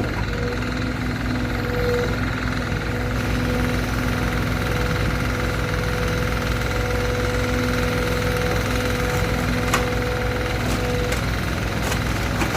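An engine running steadily, with an even low pulsing, a steady whine over it, and a couple of sharp clicks near the end.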